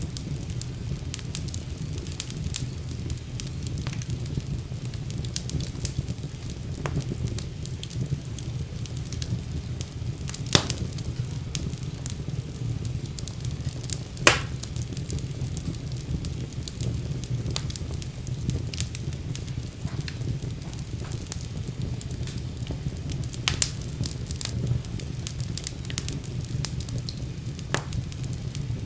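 Wood fire burning in a fireplace: a steady low rumble of flames with frequent irregular crackles and pops, two of them louder, about ten and fourteen seconds in.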